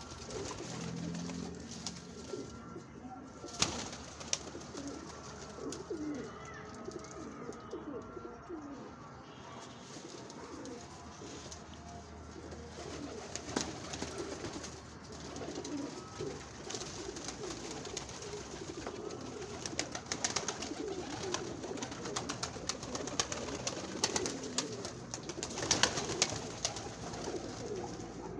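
Many domestic pigeons cooing over one another continuously in a loft, with scattered sharp clicks among them.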